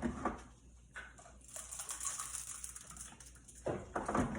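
Light clicks and knocks of household handling, with a faint hiss in the middle and a few louder knocks near the end.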